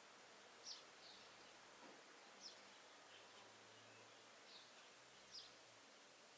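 Faint bird chirps: short, high calls coming every second or two over a quiet outdoor hiss.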